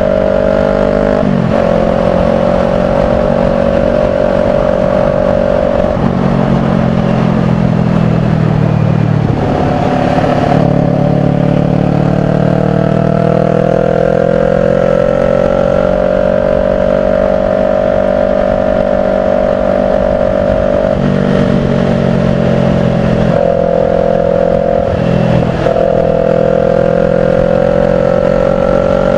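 Kawasaki Ninja 400's parallel-twin engine running at steady revs under way, its pitch stepping up and down several times with throttle and gear changes.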